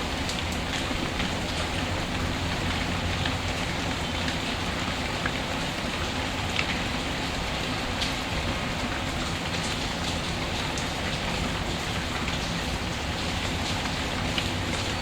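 Steady rain falling, an even hiss, with scattered small crackling pops from a wood fire mixed in.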